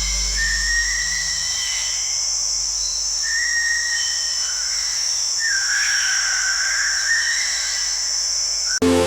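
A steady, high insect chorus with a series of whistled animal calls over it, one call dipping down and rising again about halfway through. The sound cuts off abruptly near the end.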